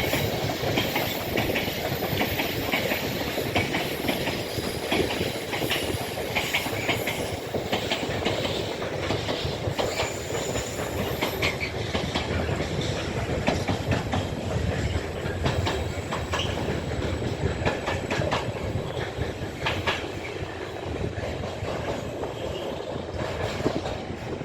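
A freight train's wagons rolling past at steady speed, the wheels clattering over the rail joints with a continuous stream of clicks.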